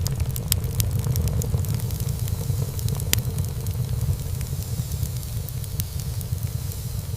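Wood fire burning in a fireplace: a steady low rumble of flames with frequent sharp crackles of burning wood and one louder pop about three seconds in.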